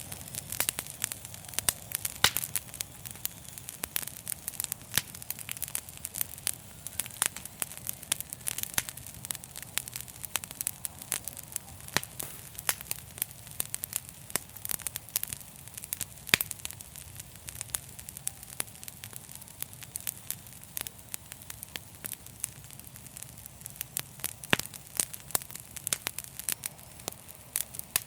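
Fire crackling in a fireplace: dense, irregular pops and snaps over a steady low rumble and a soft hiss.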